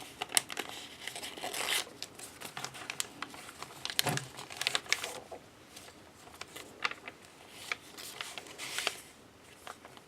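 Paper rustling and crinkling with scattered light taps and clicks as the pages, envelopes and tags of a handmade paper journal are handled and turned.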